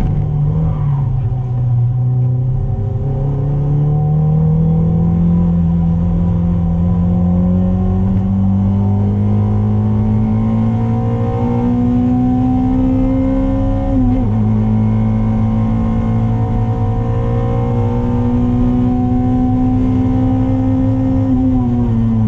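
Toyota MR2's 2ZZ-GE 1.8-litre four-cylinder engine heard from inside the cabin under hard acceleration on track. Its pitch climbs slowly through a long pull, drops sharply at an upshift a little past halfway, climbs again, then falls near the end as the throttle is lifted.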